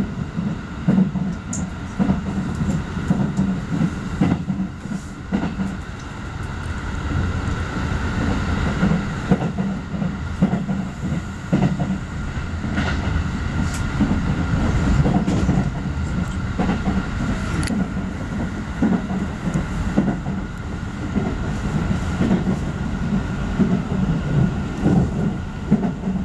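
Keikyu commuter train running at speed, heard from inside the carriage: a steady rumble of wheels on rail with scattered clicks and knocks from the track.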